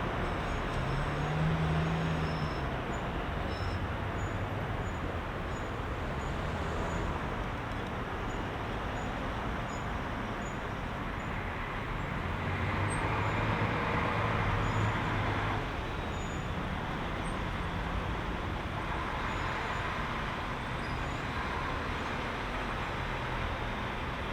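Heavy rush-hour city traffic: a steady wash of engines and tyres, with one vehicle passing more loudly from about halfway to about two-thirds in.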